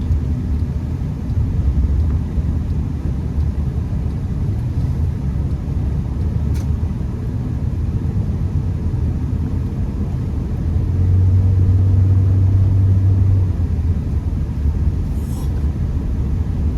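Steady low rumble of a Honda Accord's engine and tyres heard from inside the cabin while driving on a snowy road. A deeper steady hum swells for a couple of seconds about eleven seconds in, and a few faint ticks sound.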